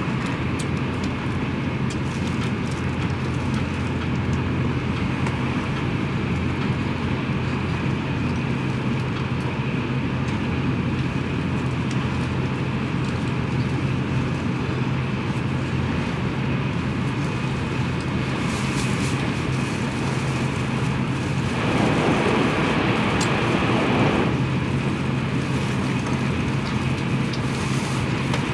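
Steady running noise of a Tokaido Shinkansen train heard from inside the passenger cabin: a low hum under a rush of wheels and air. A louder rush lasts about three seconds near the end.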